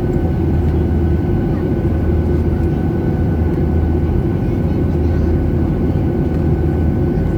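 Steady jet airliner engine and airflow rumble heard inside the passenger cabin, deep and unbroken, with a faint steady hum on top.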